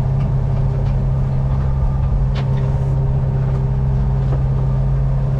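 A sailing yacht's inboard engine running steadily under way, a constant low drone with a few faint knocks.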